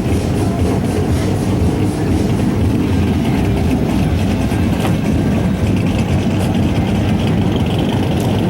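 Car engine idling steadily with a continuous low rumble.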